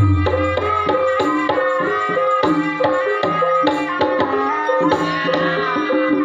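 Gamelan music for an ebeg horse dance: hand-drum (kendang) strokes over repeating metallophone notes, with a deep gong ringing out at the start.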